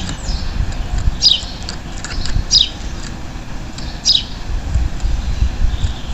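Belgian canary giving short, sharp call notes that sweep downward in pitch, three of them about a second and a half apart, over a steady low rumbling background noise.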